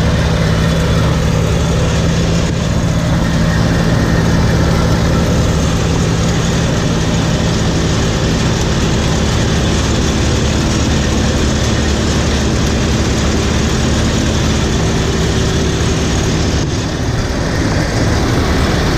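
John Deere 3300 combine running steadily under load while harvesting wheat: a constant low engine drone over the rattle and hiss of the threshing machinery.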